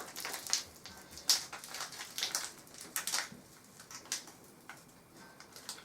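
A packet of washing machine cleaner powder being torn open by hand: irregular crinkling and crackling rustles that thin out near the end.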